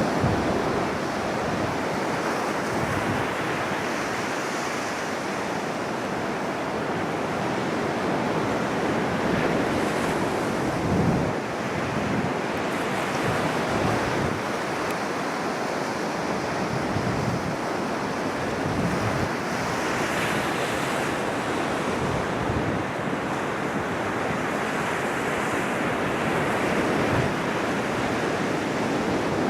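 Ocean surf breaking and washing on a beach in a steady rush, with gusts of wind buffeting the microphone now and then.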